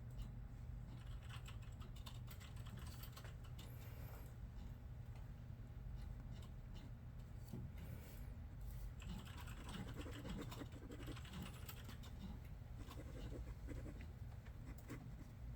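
Typing on a computer keyboard: irregular runs of key clicks over a steady low room hum.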